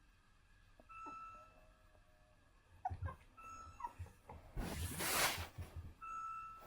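Shih Tzu puppy giving brief high whimpers while a short steady tone repeats about every two and a half seconds. A loud burst of rustling noise comes a little past the middle.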